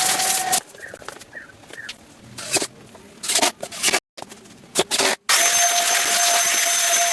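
Workshop machine noise in short, abruptly cut pieces. From about five seconds in, a motor runs steadily with a constant whine.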